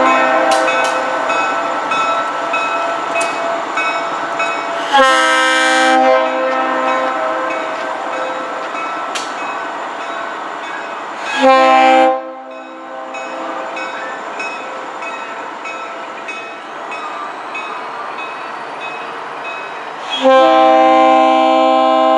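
A locomotive's multi-note horn blowing a sequence of blasts, with fresh loud blasts starting about 5, 11 and 20 seconds in, the last one long. A locomotive bell rings steadily underneath.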